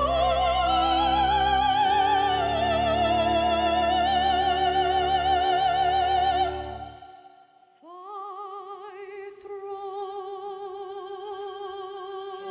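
Classical operatic voice singing long held notes with wide vibrato over orchestral accompaniment. The first note is held for about six seconds and dies away, and after a short pause a quieter sustained note begins.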